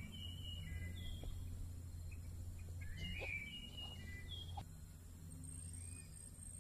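Birds calling in short chirps and whistled notes, in two clusters a few seconds apart, over a low steady rumble.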